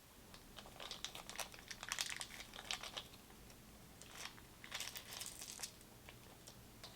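Plastic packaging crinkling and rustling as it is handled, in two bouts of crackly noise with small clicks, the first about half a second in and the second about four seconds in.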